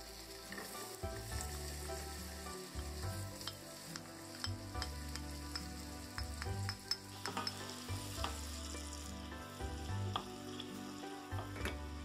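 Butter sizzling in a stainless steel saucepan while chopped onion is added and stirred in, with a steady frying hiss and many sharp clicks and scrapes of the wooden spoon against the pan.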